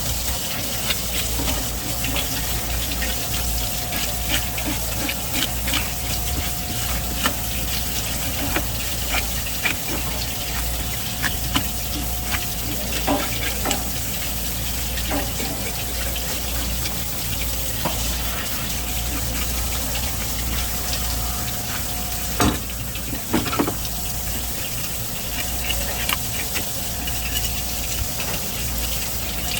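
Steady running water, as from a tap or hose at a fish-cleaning station, over a low steady hum. Scattered sharp clicks and knocks throughout, with the loudest pair about two-thirds of the way in.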